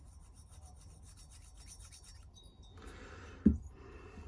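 Steel feeler gauge blade rubbing and scraping as it is worked into a two-stroke piston ring's end gap to measure it, with a single sharp knock about three and a half seconds in.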